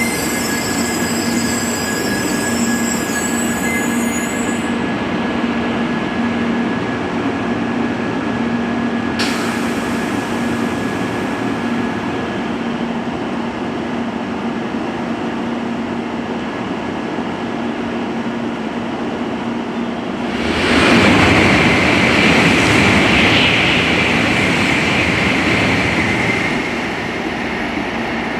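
Shinkansen train running on the line, a steady rumble of rolling noise with a thin high whine that fades out partway through. About twenty seconds in, a much louder rushing swell lasts about six seconds.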